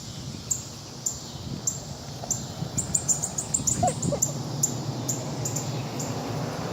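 Baby bird that cannot fly yet calling with short, sharp, high chirps about twice a second, coming faster for a moment about three seconds in.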